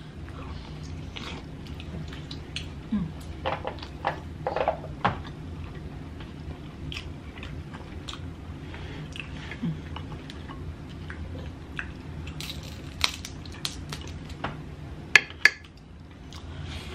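Close-up eating sounds: chewing, biting and lip smacks on seafood-boil potato, shrimp and crab legs, with scattered clicks and taps from handling the food, over a low steady hum. Two sharp clicks come close together near the end.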